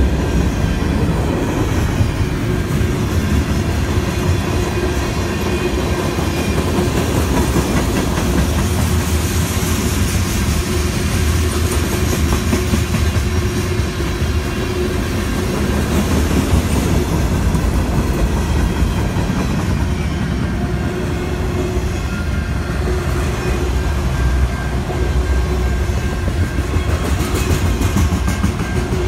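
Freight cars rolling steadily past: tank cars, covered hoppers and then autoracks, their steel wheels rumbling and clattering over the rails at a constant loudness.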